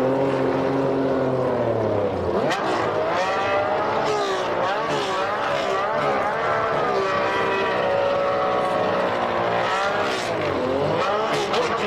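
1990 Formula One car engines running at high revs through a race. The pitch falls over the first two seconds, then rises and falls again and again with gear changes and cars going by.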